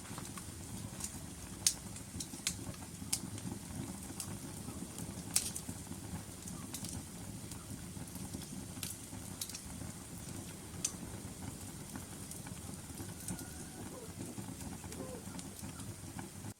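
Log fire burning in a fireplace: a steady low rumble of the flames with irregular sharp crackles and pops from the wood, a few louder pops in the first several seconds.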